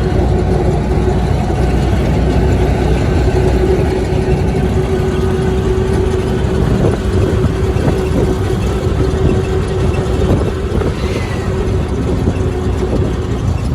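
Steady vehicle engine and road noise, with a constant droning hum.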